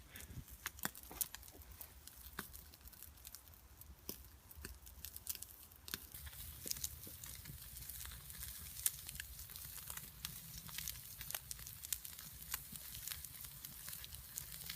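Wood campfire crackling with irregular sharp pops, over a ribeye steak sizzling in a pan on the fire; the sizzling hiss grows fuller about halfway through.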